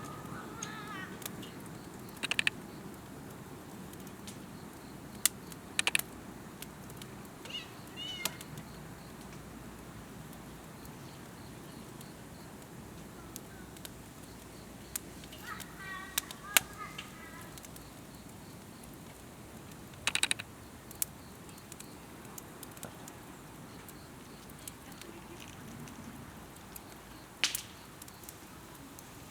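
Campfire crackling, with scattered sharp pops of burning wood over a low steady hiss. A bird chirps briefly about eight seconds in and again around sixteen seconds.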